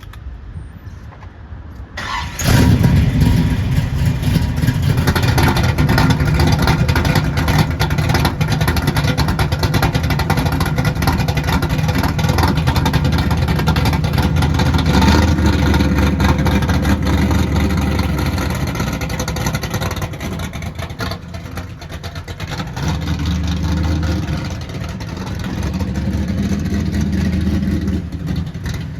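1969 Camaro Z28's 502 cubic-inch big-block Chevrolet V8 starting about two seconds in, then running loud with its exhaust dump valves open. It swells a little louder in the middle and again near the end.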